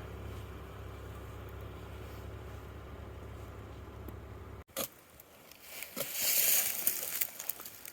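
A steady low rumble, then after an abrupt cut a few clicks and a scrape in dirt about two seconds later, as a hole is dug for a coyote dirt-hole set.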